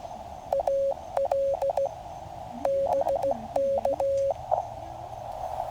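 Morse code (CW) tone near 600 Hz from a QCX mini shortwave transceiver, keyed in dits and dahs in four short groups. Steady receiver hiss runs under it in the narrow CW audio passband.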